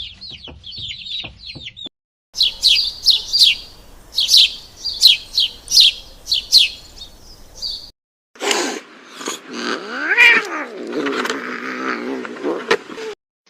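Three animal clips in a row: fast, high bird chirping; then loud, repeated, sharply falling chirps; then, after a cut about 8 seconds in, a cat meowing in a long call that rises and falls in pitch.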